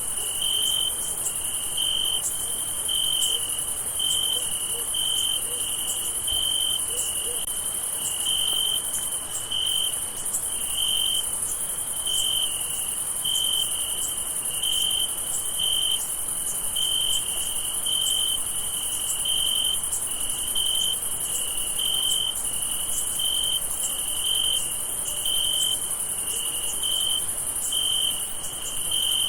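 Crickets chirping: one chirp repeating evenly about one and a half times a second over a steady high-pitched insect trill.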